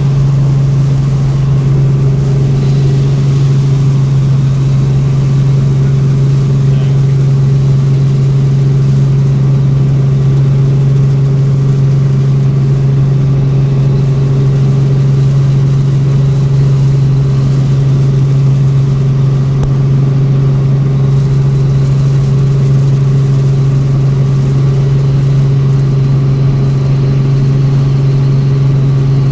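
Helicopter in flight heard from inside the cabin: a loud, steady drone of engine and rotor with a strong low hum that holds unchanged throughout.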